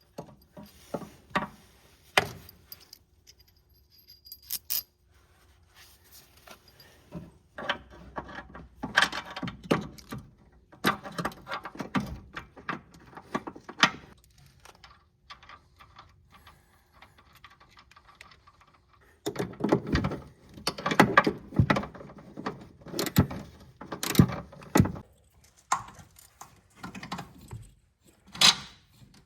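Hand work on car front suspension parts: irregular metallic clinks, knocks and rattles of tools, bolts and the lower link being handled. There are busy bursts of clattering, one in the first half and a longer one about two-thirds of the way in, with quieter pauses between.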